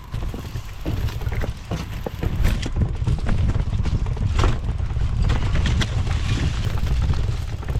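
Fat-tire folding e-bike riding over a muddy, slippery trail: a steady low rumble with irregular clacks and rattles as the bike jolts over the ground.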